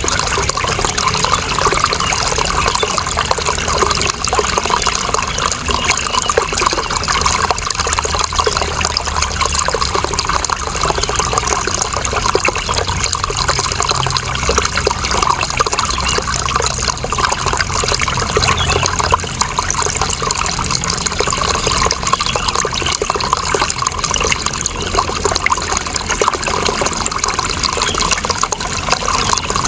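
Steady flowing water: a continuous, even splashing and trickling with no breaks or changes.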